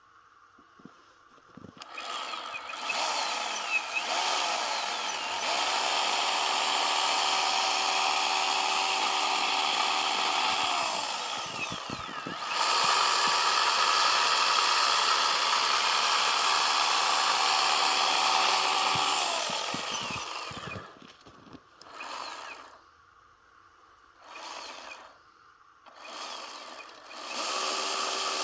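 Chainsaw running at high revs as it cuts into a block of packed snow. It starts about two seconds in, drops off briefly about halfway through, then runs steadily again. Near the end it comes in a few short revs before running steadily once more.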